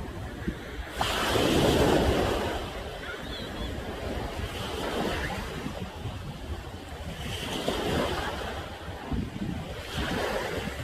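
Ocean waves crashing on the shore at high tide, with one big surge about a second in and smaller waves breaking every couple of seconds after.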